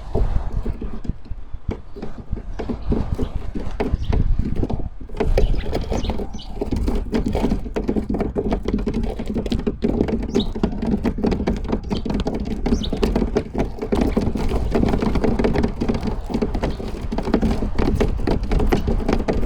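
Birds on a wooden feeder close to the microphone, pecking and scratching: dense, irregular tapping and rustling that grows busier after about five seconds.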